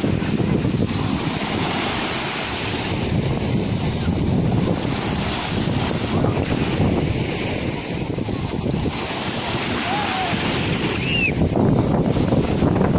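Sea surf washing and breaking in a continuous rush that swells and eases, with wind buffeting the microphone. Two brief faint chirps sound near the end.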